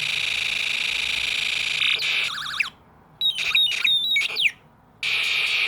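Electronic sound effects from a Snap Circuits speaker driven by its Space War and Alarm ICs: a steady high buzzing tone, a rapid warble, then a quick run of short zapping chirps and sweeps. After a brief pause, the steady buzz starts again near the end.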